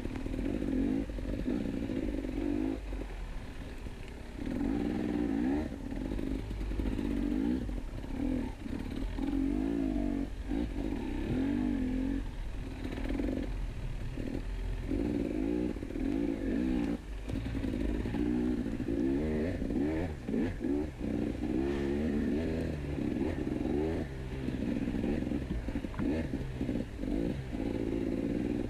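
KTM 250 EXC two-stroke enduro motorcycle engine revving up and dropping off again and again as the bike is ridden over rough, rocky trail, with occasional clattering knocks.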